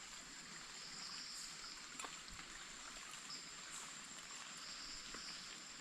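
Faint steady night-forest ambience: a continuous high insect drone with a steady high whine and softly pulsing bands, and one faint click about two seconds in.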